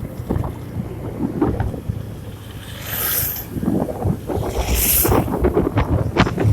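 Wind buffeting the microphone over the rumble of a vehicle on a rough road, with many short knocks and rattles and two brief hisses, about three and five seconds in.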